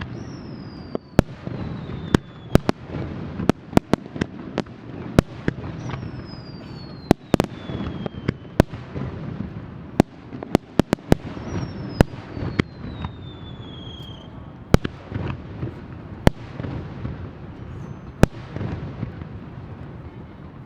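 Aerial fireworks display: many sharp cracks and bangs going off irregularly over a continuous low rumble of bursts, with a falling whistle heard three times, about six seconds apart.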